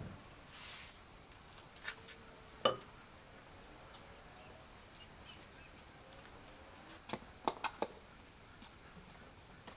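Steady chirring of crickets or other insects, with a few sharp knocks: one loud one about a third of the way in and a quick run of four near the end.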